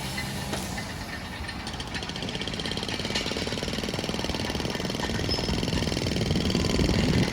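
An engine running steadily with a fast, even knocking beat, growing gradually louder.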